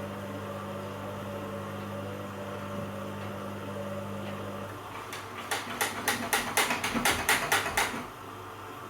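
A washer dryer's steady hum cuts out about halfway through, followed by a quick run of about a dozen sharp mechanical clicks, around four a second, lasting about three seconds.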